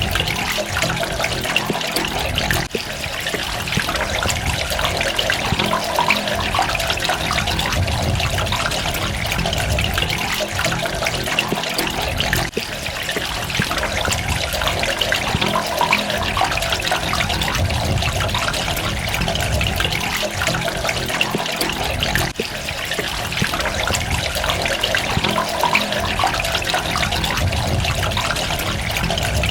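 Water running and splashing steadily, with trickling drops, briefly dipping about every ten seconds.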